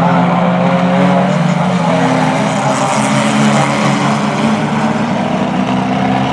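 Engines of racing Reliant Robin banger cars running together: a steady drone of several pitches, one rising slowly near the end.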